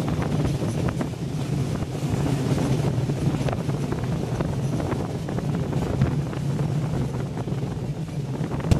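Passenger train running at speed, heard from an open coach window: a steady rumble of wheels on the rails with wind buffeting the microphone and a few sharp clicks from the track.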